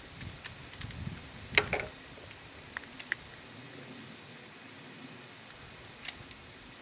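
Scattered light metallic clicks and knocks of a revolver and its cartridges being handled while it is made ready to fire, most in the first three seconds and two more about six seconds in.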